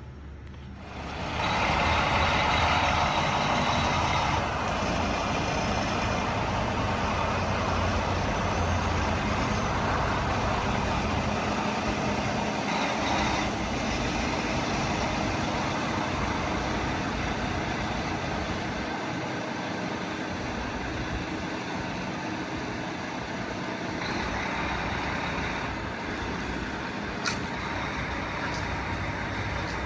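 An engine starts up about a second in and runs steadily, with a single sharp click near the end.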